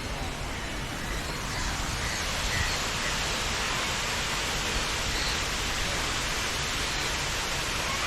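Steady rushing of falling water, a hiss that grows louder about a second and a half in and then holds.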